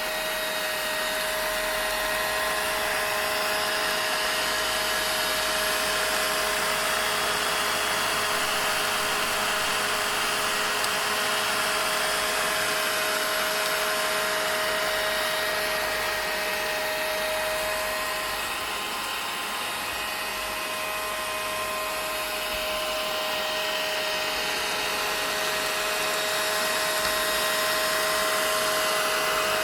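Vacuum cleaner motor running steadily: a continuous whirring hiss with a steady hum tone, easing slightly in level for a few seconds about two-thirds of the way through.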